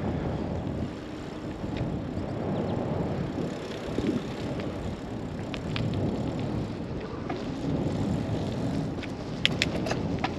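Riding noise from a Trek bicycle under way: steady rumble of its wider tyres on the road mixed with wind on the microphone, with a few sharp clicks near the end.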